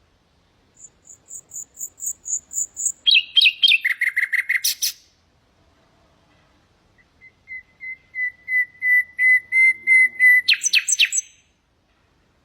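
Common nightingale singing two phrases, each a run of rapidly repeated notes that swells in loudness. The first starts high and drops to lower notes in quick steps. The second, after a short pause, is a long run of piping notes on one pitch that ends in a few sharp notes.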